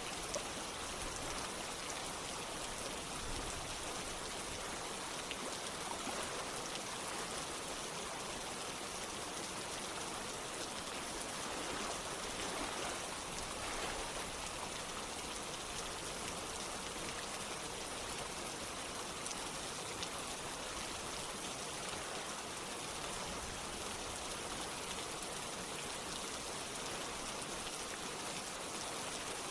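Steady rain together with running water: an even hiss of falling drops with a few sharper individual drips.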